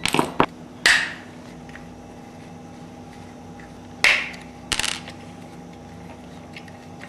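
Sharp clicks and knocks of hand tools and small metal parts being handled as a small bracket is unbolted from an RC buggy's chassis: a quick cluster at the start, one about a second in, and two more about four and five seconds in.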